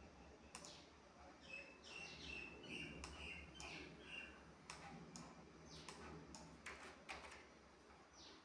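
Faint bird chirps, a scatter of short high notes and quick falling sweeps, over a low background hum.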